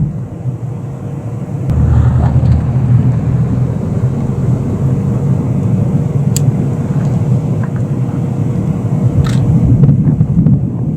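Steady low rumble of a car on the move, growing louder about two seconds in.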